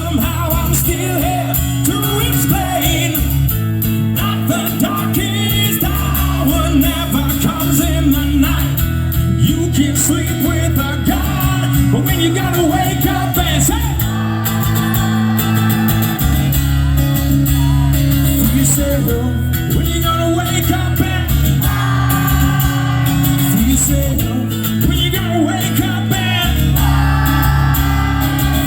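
Live rock music: guitar playing with singing, loud and unbroken, the notes changing every second or two.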